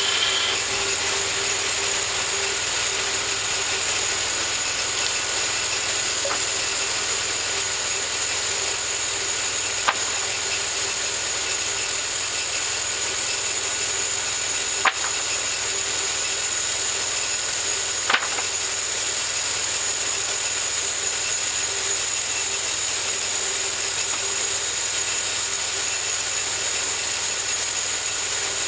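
Homemade bandsaw mill running steadily, its blade sawing through a cherry log, with a few sharp clicks partway through.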